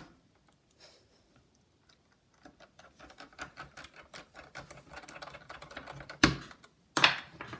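Rapid light clicking and ticking as a precision screwdriver drives a screw into a laptop display hinge, with two sharper knocks near the end.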